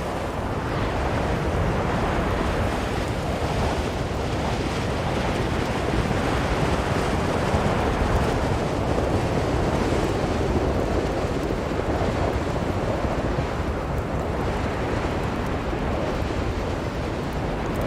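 Strong blizzard wind blowing without a break, swelling and easing slowly.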